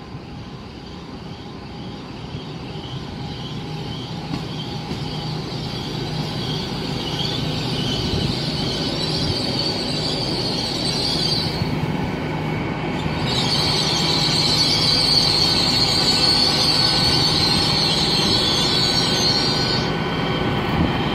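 GWR Class 800 bi-mode train arriving on its underfloor diesel engines, growing louder as it draws alongside, with a steady low hum. A high squeal from the brakes and wheels rises over it as it slows, stops briefly a little past the middle, then comes back louder.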